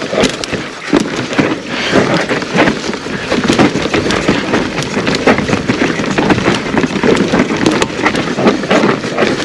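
Mountain bike riding down a dirt forest trail: steady tyre noise over dirt and roots with many quick knocks and rattles from the bike.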